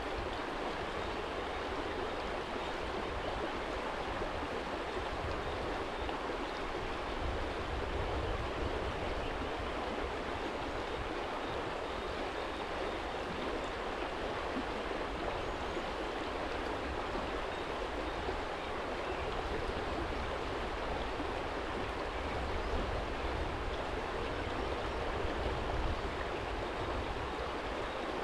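Small shallow stream running over stones, a steady rushing water sound, with a low rumble underneath.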